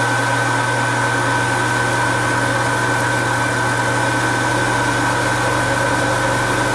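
Metal lathe running steadily, with a constant low hum and a steady high whine.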